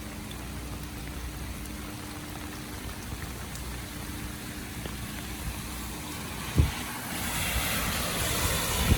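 Steady rain hiss on a wet street, then from about seven seconds a taxi's tyres hissing on the wet road, growing louder to the end. A single thump comes just before the tyre hiss rises.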